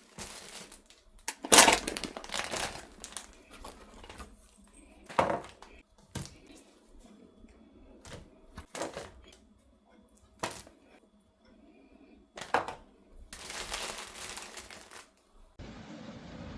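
Irregular crinkling, rustling and sharp knocks of things being handled, in separate bursts with short gaps; about a second before the end it cuts to a steady hiss.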